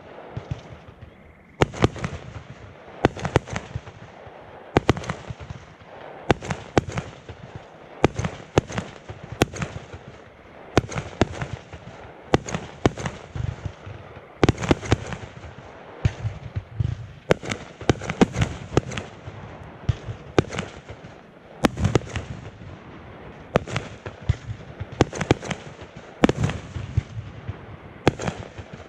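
Aerial fireworks bursting in steady succession, a sharp bang about every one and a half seconds, with smaller pops and crackle in between.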